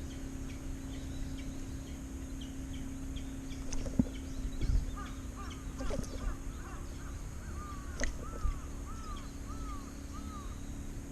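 A bird calling outdoors: a run of short, arched, repeated calls, about two a second, through the second half, over a steady low hum, with a few sharp knocks.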